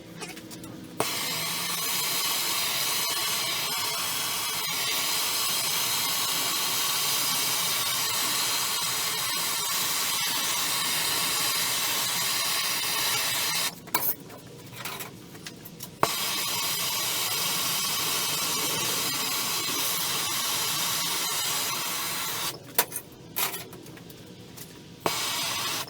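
A metal-working power tool running steadily in two long stretches, about twelve seconds and then about six, followed by a few short bursts near the end.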